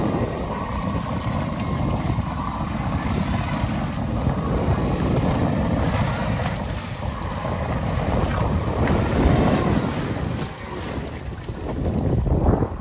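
Wind buffeting the microphone over the sea washing around a small fishing boat at sea, a steady rough rush heaviest in the low end.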